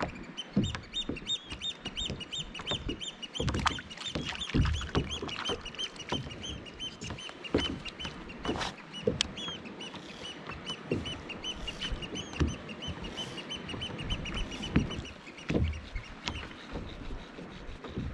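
A bird calling in a long run of short, high peeps, about four or five a second, that stops a few seconds before the end. Under it come irregular low knocks and water slaps against the kayak.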